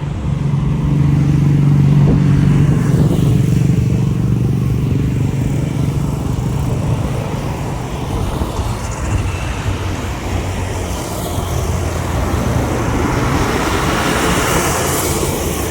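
Jet airliner taking off at full power: a steady deep engine rumble with a low hum that is strongest about two seconds in, and a rising hiss near the end.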